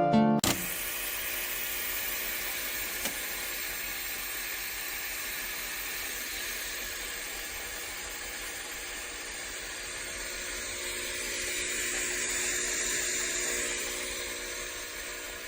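Breville Oracle Touch espresso machine running, a steady hiss over a faint mechanical hum that swells a little near the end. A brief end of background music comes first, about half a second in.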